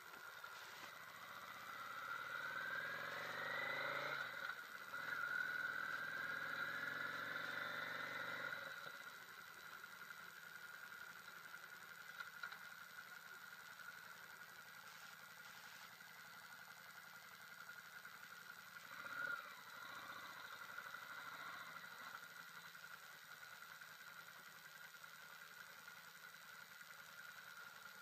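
Yamaha V Star 650's air-cooled V-twin engine pulling away, its pitch rising twice through the first several seconds as it accelerates through the gears. It then drops back to a lower, steady run as the bike slows and rolls in.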